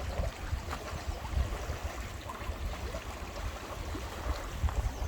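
Outdoor ambience, a steady noise with wind rumbling on the microphone.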